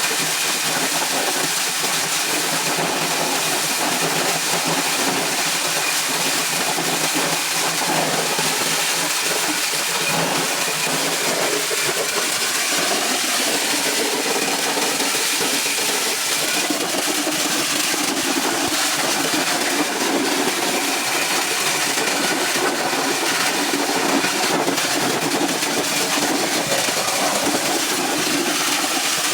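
Motorised corn sheller running steadily, a continuous mechanical noise of the machine stripping kernels from the cobs.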